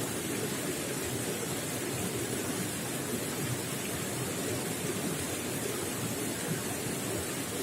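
Running water gurgling and splashing in a steady, unbroken flow.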